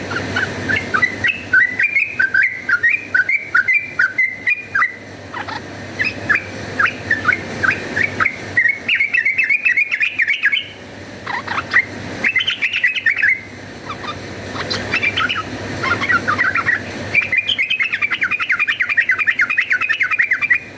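Yellow-vented bulbul (trucukan) chattering in fast runs of short chirping notes, broken by brief pauses. This is its excited fighting call.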